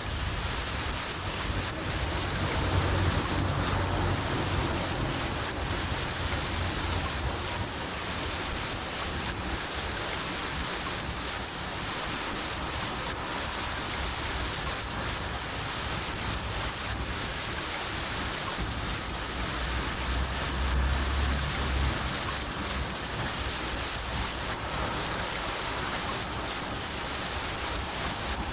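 A cricket chirping steadily at about three chirps a second over steady rain, with low rumbles of distant thunder about three seconds in and again near the two-thirds mark.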